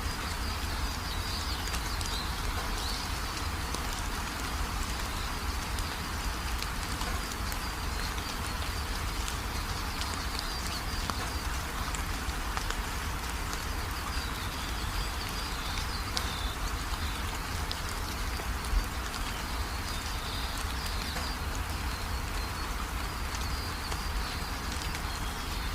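Steady rain falling, with faint high chirps and one brief sharp tick about two-thirds of the way through.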